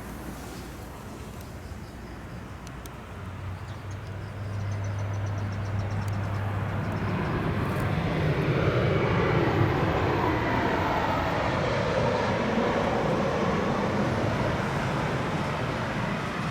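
Jet airliner passing low overhead: its engine roar grows over several seconds, is loudest about halfway through, and stays loud to the end.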